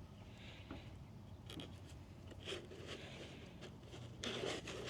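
Faint handling of a cut plastic bucket cone: light rubbing and scraping with a few soft clicks, a little louder near the end.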